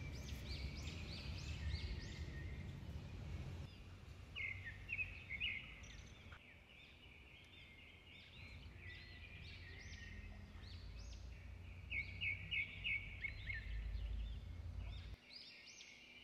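Small birds chirping and calling in quick repeated notes, over a low rumble that cuts off near the end while the chirping goes on.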